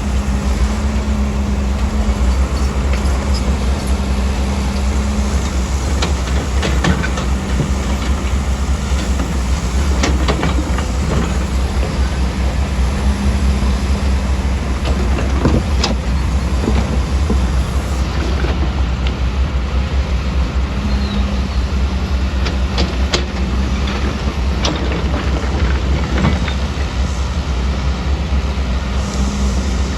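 Heavy earthmoving machinery working: a steady low diesel engine rumble whose pitch rises and falls now and then, with scattered metallic clanks and knocks like tracks and steel parts.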